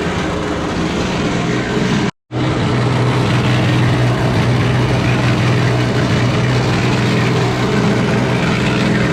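Concrete mixer running with a load of wax-coated sand tumbling in the drum: a loud, steady hum with a noisy rush over it. It drops out for a split second about two seconds in.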